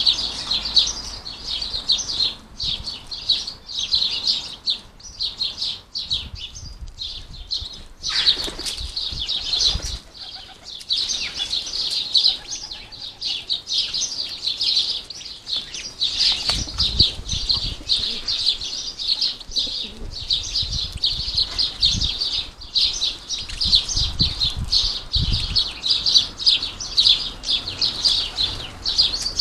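House sparrows and goldfinches chirping busily and without pause at a bird feeder, with wing flutters and occasional low thumps, mostly in the second half.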